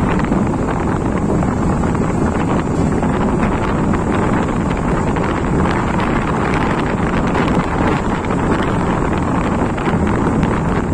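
Steady wind rush buffeting the microphone on a moving motorcycle, mixed with the bike's engine and road noise.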